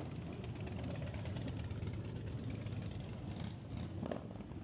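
Motorcycle engines running steadily at low speed in street traffic, a continuous low drone.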